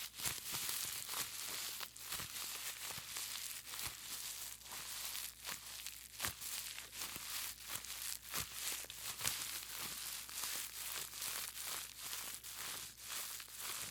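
Bubble wrap squeezed and crumpled in the hands: dense crinkling with many sharp crackles and pops.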